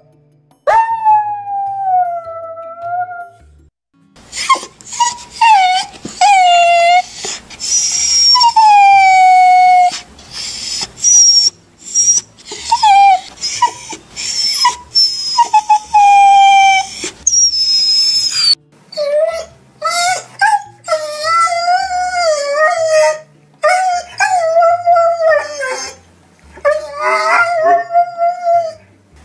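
Dogs crying: a run of high whines, whimpers and drawn-out howl-like cries, each wavering or sliding in pitch, one after another with short breaks between them.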